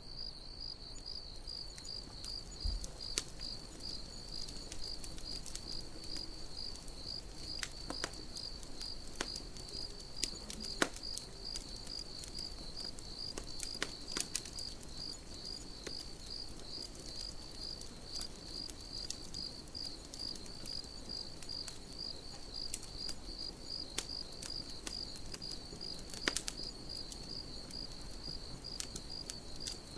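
Crickets chirping in a steady, rhythmic pulse, with a campfire crackling now and then in sharp pops.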